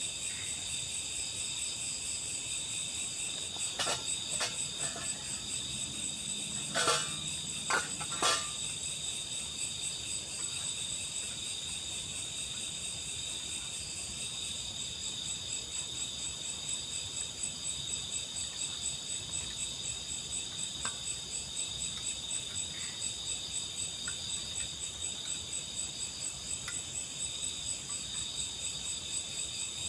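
Chorus of crickets and other night insects, a steady high-pitched trilling throughout. A few brief sharp clicks or knocks come about four to eight seconds in.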